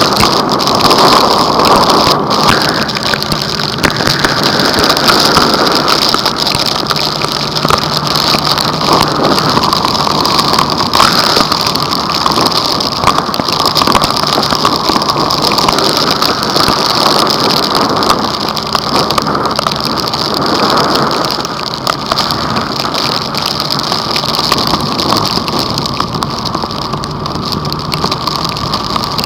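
Heavy rain pelting a moving vehicle in a violent thunderstorm downpour, a loud steady hiss, with the vehicle's engine humming faintly underneath.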